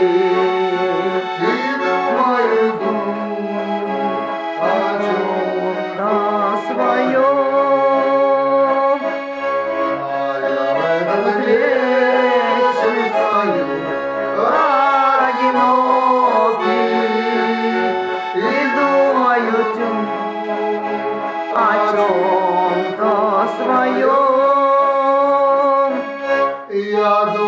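A garmon, the Russian button accordion, built by master Khoroshilov, plays the song's melody over sustained chords with regular bass-button notes underneath, as an instrumental passage.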